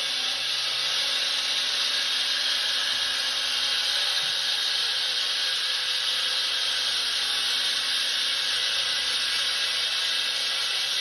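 Handheld concrete saw running steadily, an even, hissing noise that holds at constant loudness with little low end.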